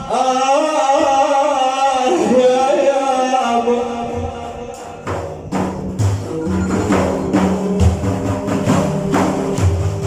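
A solo singer holds a long, wavering sung line of devotional poetry; about five seconds in, frame drums with jingles come in and beat a steady rhythm under it.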